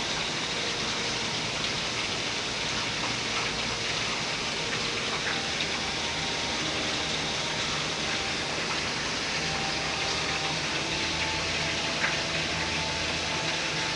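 Very heavy rain coming down hard in a steady downpour, a dense even hiss of water.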